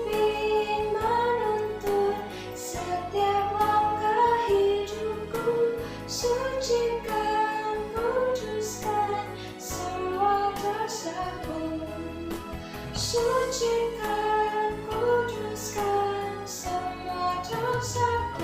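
A woman singing a slow song melody over instrumental accompaniment.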